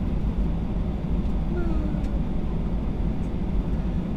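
Steady low rumble inside the cabin of an Airbus A320 taxiing on the ground, with its jet engines at low thrust.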